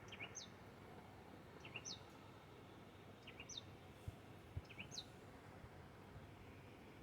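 A bird calling faintly, the same short call repeated four times about every one and a half seconds: two quick chips followed by a high, sharply falling note. Two soft low thumps come about four and four and a half seconds in.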